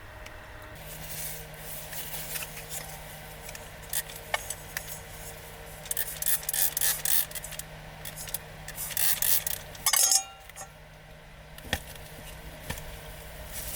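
Scrapes, clicks and rustling from handling dishes, utensils and other small items in close quarters, with a few sharper knocks. A steady low hum comes in about a second in.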